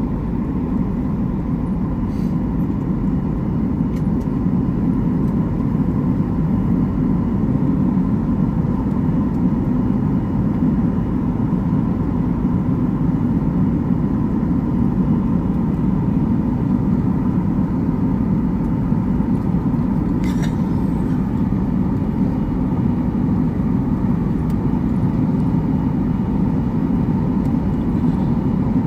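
Steady low rumble of a moving vehicle heard from inside the cabin, with a faint constant tone above it and a few light clicks.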